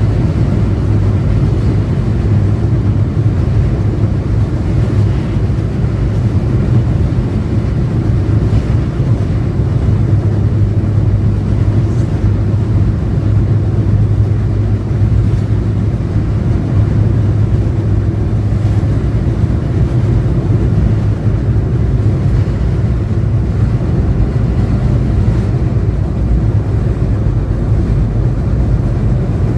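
Passenger train running steadily: an even, loud low rumble of the wheels and carriage on the track.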